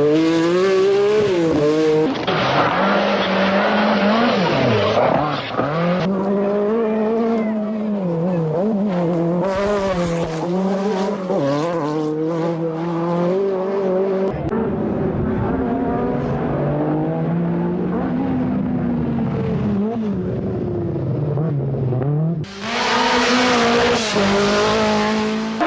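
Group B rally car engines running hard in several clips, one after another. The revs climb and drop sharply again and again through gear changes and lifts, with some tyre noise.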